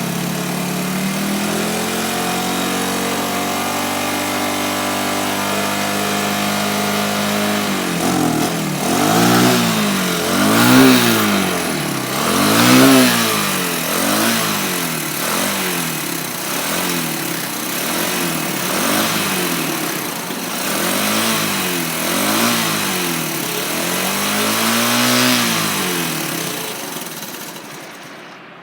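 Honda TL125 Ihatov trials motorcycle's single-cylinder four-stroke engine idling, its idle slowly rising. It is then blipped with the throttle about ten times, once every couple of seconds, and it dies away near the end.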